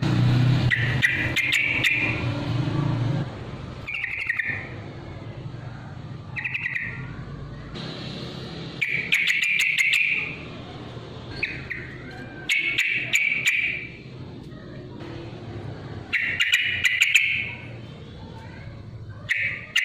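Sooty-headed bulbul singing short, bubbly song phrases in fighting mode, about seven phrases repeated every two to three seconds, with sharp clicks between them.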